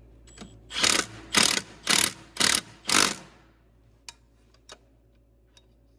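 Hand ratchet wrench being cranked, five quick rattling strokes about half a second apart, then a few faint ticks.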